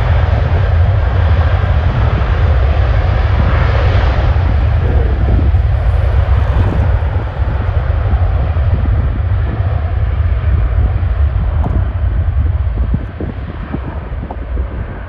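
Jet airliner engines running at takeoff power, a loud steady rush that drops off somewhat near the end, with heavy wind rumble on the microphone.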